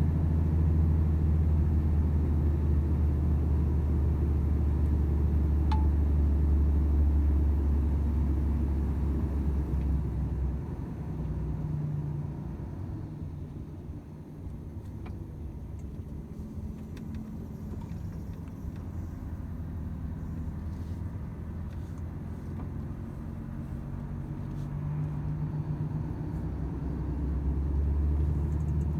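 Volvo FH 500 truck's 13-litre straight-six diesel running under way with tyre and road noise: a deep drone that is loudest for the first ten seconds or so, eases off, and builds again near the end.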